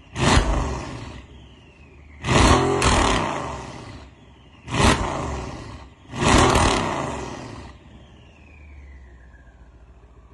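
Mercedes-Benz CLS engine and exhaust revved in four sharp blips, the second a quick double and the last held longer, each dying away. Near the end it settles back to a low, steady idle.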